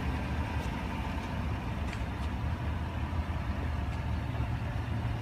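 A vehicle engine idling steadily: a low, even rumble with a few faint ticks.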